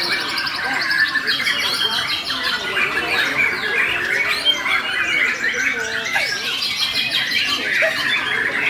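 White-crowned shama (murai borneo) singing a continuous, loud, rapid song of varied chirps, trills and harsh squawky notes with no pauses, in the aggressive fighting-style display bird keepers call 'tarung'.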